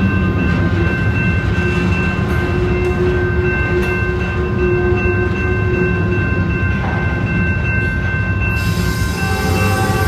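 A train rolling past at close range: a steady, loud rumble of rail cars on the track, with several steady high-pitched tones ringing over it. A hiss in the highest range comes up about eight and a half seconds in.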